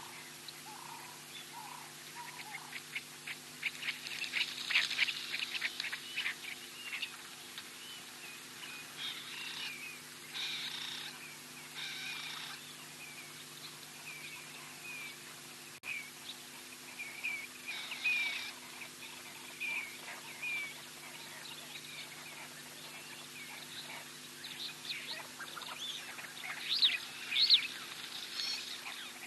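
Wild birds chirping and calling in short phrases and rapid trills, busiest twice with the loudest calls near the end, over a steady low hum.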